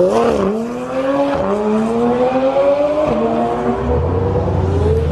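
Modified car engine accelerating hard. It revs up with a climbing pitch, and the revs drop sharply twice as it shifts gears, about a second and a half in and again about three seconds in.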